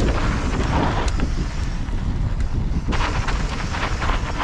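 Wind rushing over an action camera's microphone as a Yeti SB115 mountain bike rolls fast over dirt singletrack, with a steady rumble of tyres on the ground and scattered clicks and rattles from the bike over rough terrain.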